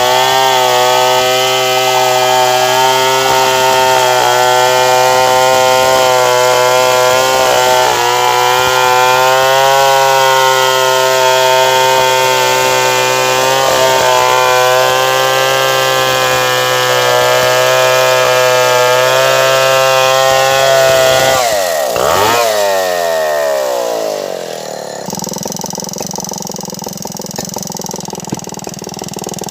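Stihl 070 two-stroke chainsaw running at high revs, cutting wood, for about twenty seconds; then the revs fall away sharply and it drops to a quieter, lower idle.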